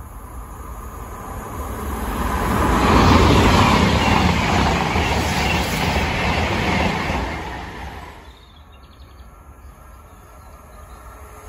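CrossCountry diesel multiple-unit passenger train passing on the line, its noise swelling over the first three seconds, holding, then fading away by about eight seconds in.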